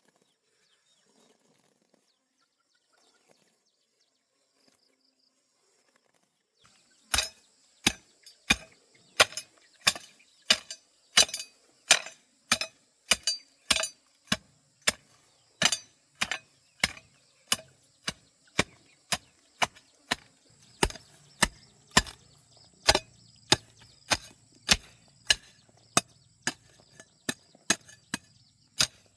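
Steady chopping: a blade striking wood in sharp, even blows about twice a second, starting about seven seconds in. Insects buzz faintly underneath.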